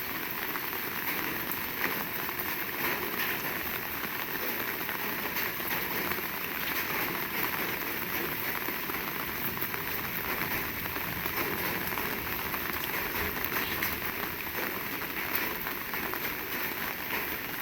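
Heavy rain falling steadily: a dense, even hiss with scattered louder drop hits.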